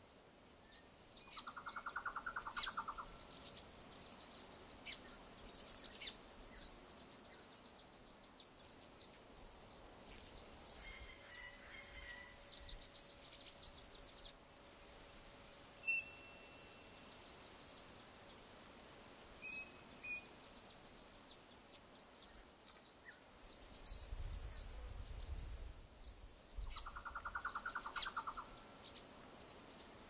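Faint chorus of small birds chirping and calling, with many short, high chirps throughout and a brief trill about a second and a half in and again near the end.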